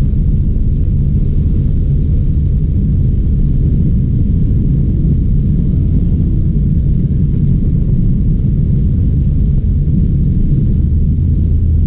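Steady low vehicle rumble, even throughout with no distinct events.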